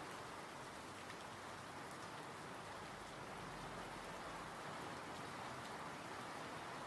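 Steady, gentle rainfall, an even hiss of rain with faint scattered drop ticks.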